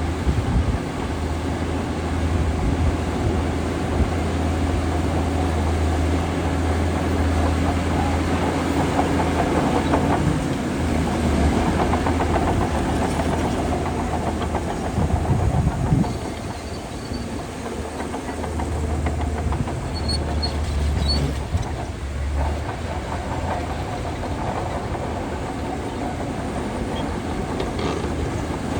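Shantui DH17C2 crawler bulldozer's diesel engine working under load with a steady low drone and clattering from the machine. The drone eases off and drops a little in level about 16 seconds in.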